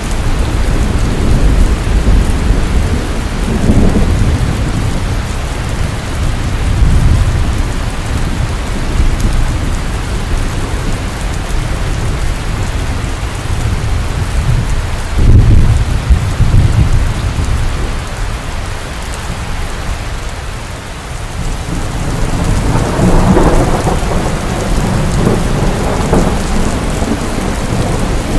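Steady heavy rain with rolling rumbles of thunder. The loudest crack comes about halfway through, and another long rumble follows near the end.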